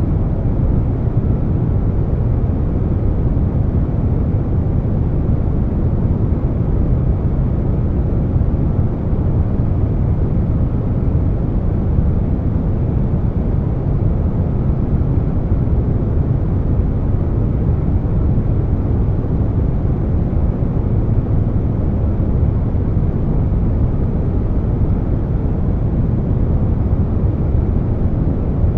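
Steady air conditioner noise blended with brown noise: an even, deep rushing hum, heaviest in the low end, with no changes.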